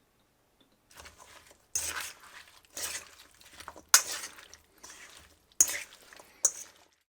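Rustling and scraping handling noises, broken by about five sharp knocks or clatters.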